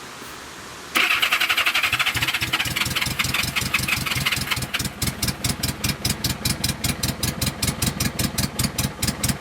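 Honda GL1000 Gold Wing flat-four engine being cranked on its electric starter for a cold start with the choke out. The cranking comes in abruptly about a second in and settles into even, rapid pulses as the engine tries to catch.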